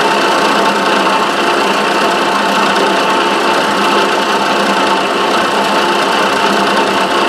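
Milling machine spindle running steadily, with an end mill cutting a slot in Delrin plastic.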